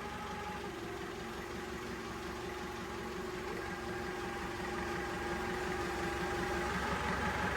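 Steady mechanical hum of a running motor or engine. A steady whining tone comes in just after the start and cuts off about a second before the end.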